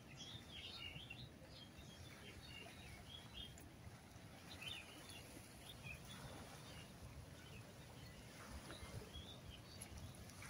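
Faint, scattered bird chirps over a low, steady background rumble, with no voices.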